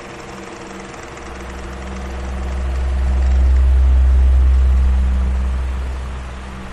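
Electric fan running with a steady hum. A deep rumble swells from about a second in, peaks in the middle and fades away near the end.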